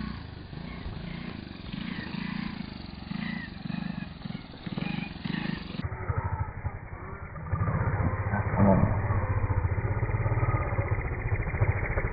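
Honda Big Red three-wheeler's single-cylinder four-stroke engine running. For the first half it rises and falls in a pulsing rhythm; from about halfway it runs louder and steadier.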